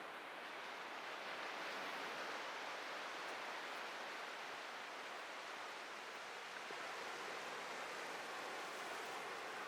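Atlantic Ocean surf breaking and washing up the beach, a steady hiss of water that swells over the first couple of seconds and then holds.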